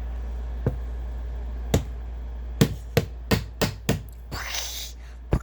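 A series of hard knocks and taps, about eight in all, most of them in a quick run in the middle, with a brief rustle near the end, over a steady low hum. These fit toys being knocked against a toy dollhouse.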